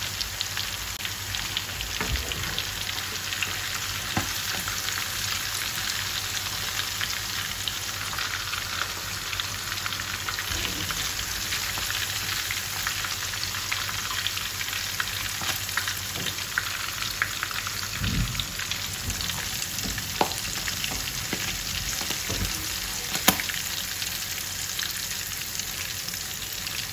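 Flour-coated squid rings and shrimp frying in a pan of hot oil: a steady sizzle with fine crackling, with a few sharp clicks in the second half.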